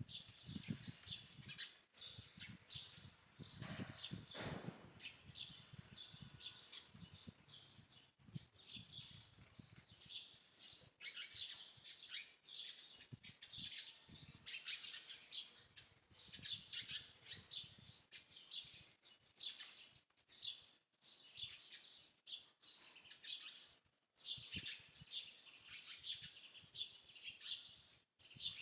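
Small birds chirping, a rapid, continuous run of short high chirps, with faint low rustling in the first several seconds.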